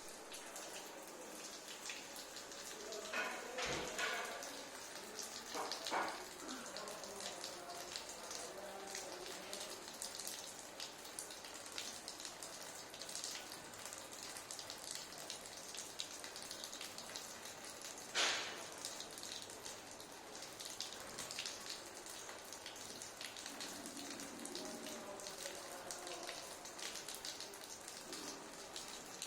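Budgerigar bathing in water, splashing with its wings: a steady patter of droplets with a few louder splashes, about four seconds in, near six seconds and once more later.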